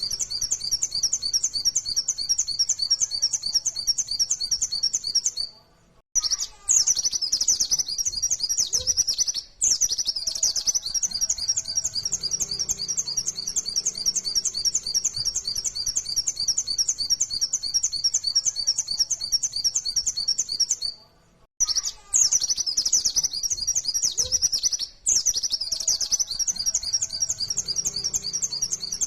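White-eye (pleci, Zosterops) singing a fast, unbroken string of high, rapid chattering notes, the 'nembak' shooting song, stopping briefly about 6 seconds in and again about 21 seconds in before starting over.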